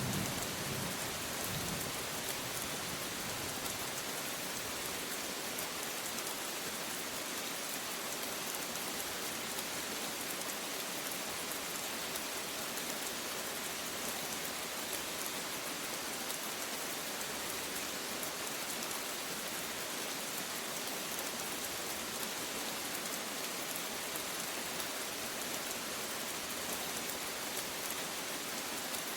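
Steady rain falling, an even hiss. The last of a thunder rumble dies away in the first second or two.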